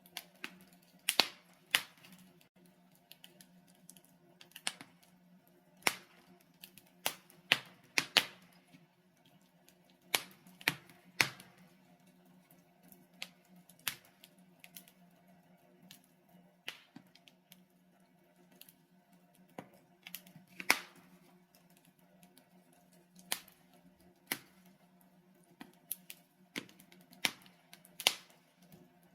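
Logs burning in a fireplace: sharp crackles and pops at irregular intervals, sometimes two or three in quick succession, over a faint steady hum.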